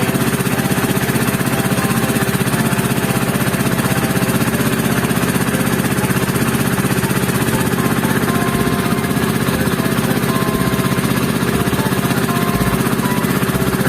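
A small boat's engine running steadily at a constant speed, with a fast, even beat.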